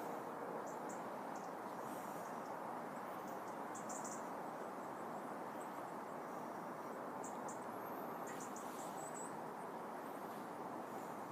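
Quiet outdoor ambience: a steady low hum of background noise with faint, scattered high-pitched bird chirps and short twittering calls, most of them between about seven and ten seconds in.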